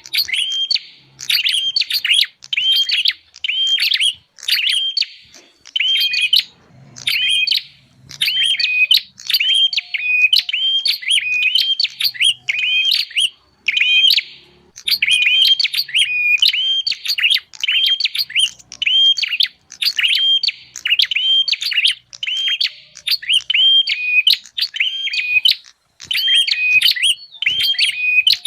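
Prenjak (prinia) calls played as a bird-lure recording: a fast, continuous series of sharp chirping notes, about two or three a second, in runs broken by brief gaps.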